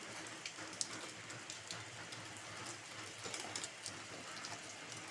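Steady rain falling, an even hiss with many scattered drops ticking close by.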